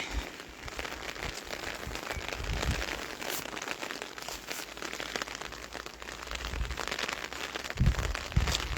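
Light rain pattering steadily, a dense crackle of fine drops. A low rumble comes in near the end.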